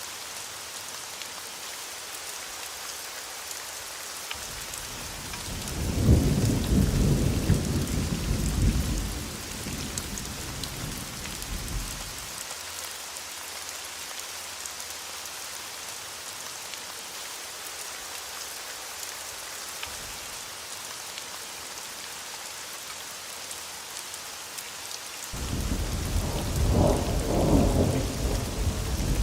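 Steady rain hiss with thunder rumbling twice: a first rumble swelling about four seconds in and dying away by about twelve seconds, and a second one starting near the end.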